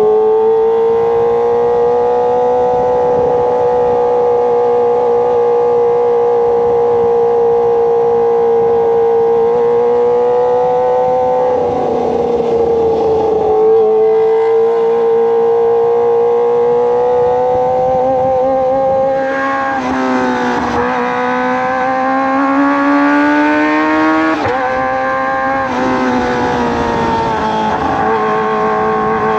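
Kawasaki ZX-25R's 250 cc inline-four running at high revs through a Racefit Slash aftermarket exhaust while riding, a steady high-pitched note. The pitch dips and recovers briefly about twelve seconds in, then shifts up and down several times over a few seconds past the midpoint as the throttle and gears change.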